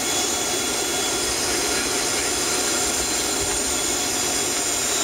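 Steady jet engine and air noise heard from inside the cabin of a Boeing 757-300 taxiing, its engines at taxi power.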